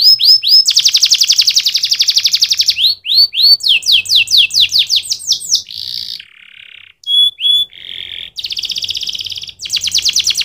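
Domestic canary singing a long song of rapid trills, each phrase a quick run of one repeated note, switching from phrase to phrase. About halfway through it drops briefly to lower buzzy notes and two short whistles, then goes back into fast trills.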